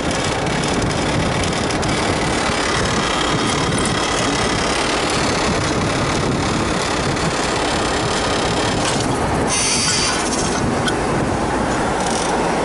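Heavy wheeled tractor running, a loud steady rumble and rattle with no let-up, with a short hiss about nine and a half seconds in.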